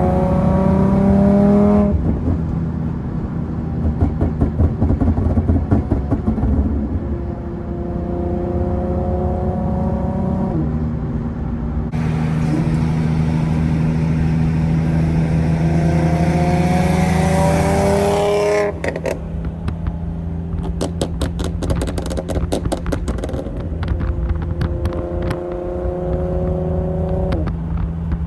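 Infiniti G37's 3.7-litre VQ37 V6 through a loud aftermarket exhaust, pulling hard with rising revs through several gears. After the longest pull, about two thirds in, the throttle lifts and the exhaust crackles and pops for several seconds before another rising pull near the end.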